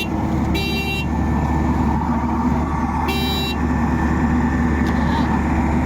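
Heavy diesel farm machinery engine running steadily under load, with two short horn toots, one under a second in and one about three seconds in.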